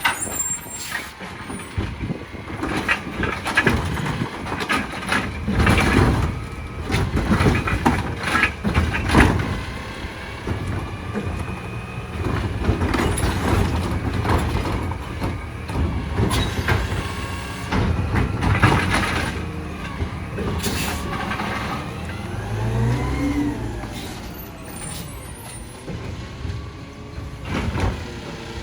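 Side-loader garbage truck at work, its diesel engine running under a string of clanks and bangs as it handles a cart. About three-quarters of the way in, the engine revs up and back down.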